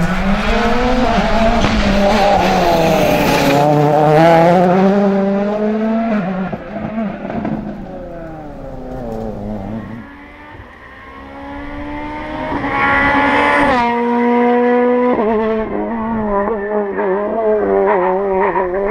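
Rally car engine revving hard, its pitch rising and falling with throttle and gear changes, then fading about ten seconds in. Engine note builds again to a sustained high-rev pitch that drops sharply near the fifteen-second mark, then wavers on.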